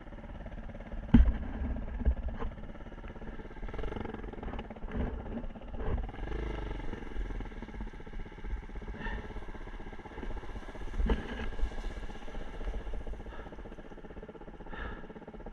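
A Kawasaki KLX150 dirt bike's single-cylinder engine running steadily, with a few knocks and thumps; the loudest knock comes about a second in.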